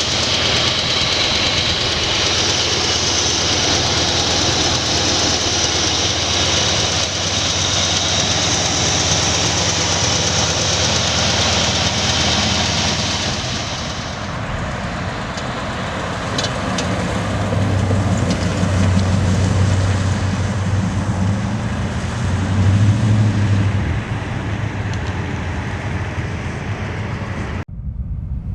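1962 Oldsmobile Starfire's 394 cubic-inch V8 running, with loud, steady road and wind noise for about the first half. Then the noise fades and the engine's low hum rises and falls. The sound cuts off abruptly near the end.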